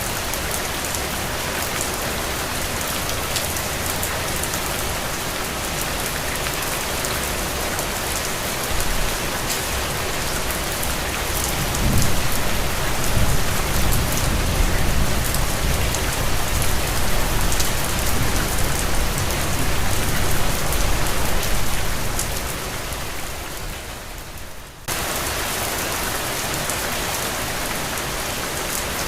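Steady rain falling, with a low rumble swelling up about twelve seconds in and dying away some ten seconds later; the sound then cuts abruptly back to plain rain.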